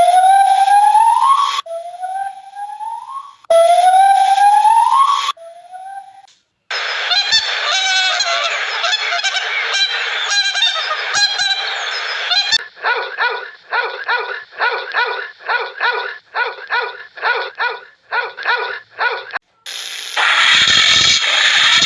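A string of different animal calls cut one after another: a few rising pitched calls, then a busy noisy stretch, then a rapid series of short calls about three a second, and a loud noisy sound near the end.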